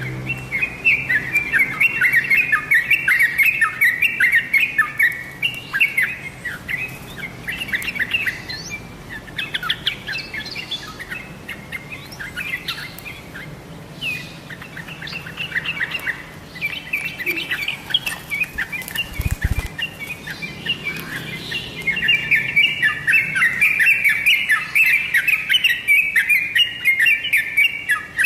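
Yellow-vented bulbul (trucukan) chattering in fast runs of short chirping notes, thickest at the start and again over the last several seconds, with sparser calls in between.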